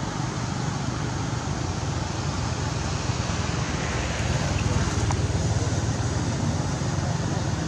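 Steady outdoor background rumble and hiss, with no clear single event standing out.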